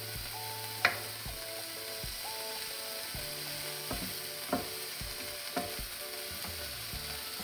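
Minced pork and onion sizzling on a hot electric griddle plate while being stirred and scraped with a wooden spatula and a turner. The spatulas click sharply against the plate now and then, loudest about a second in.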